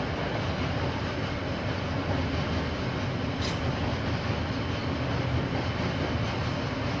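KiwiRail train passing on the line: a steady rumble with one brief high squeak about halfway through.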